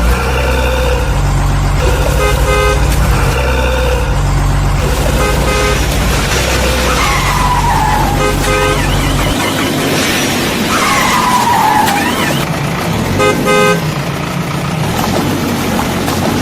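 Cartoon vehicle sound effects: short horn toots repeated in groups over a deep engine rumble that drops out about nine seconds in, with two falling whines in between.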